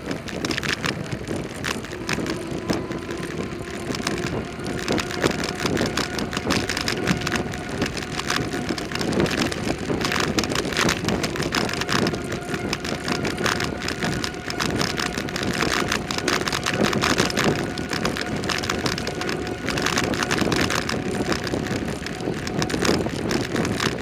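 Bicycle being ridden, heard from a camera on the ride: steady tyre-on-road noise with constant fine rattling and some wind on the microphone.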